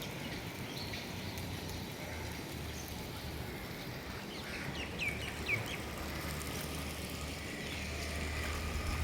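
Outdoor morning ambience: small birds chirping here and there over a steady low background rumble, with two short, clearer downward-sweeping bird calls about five seconds in.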